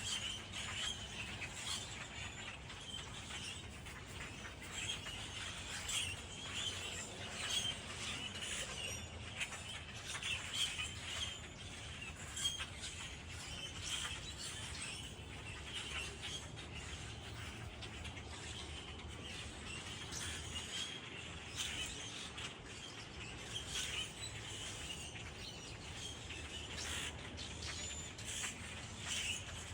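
Birds chirping, with many short high calls scattered throughout over a steady low background rumble.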